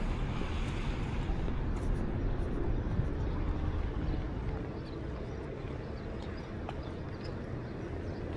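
Outdoor street ambience during a walk in the rain: a steady low rumble under an even hiss, with a few faint light ticks. The rumble eases about halfway through.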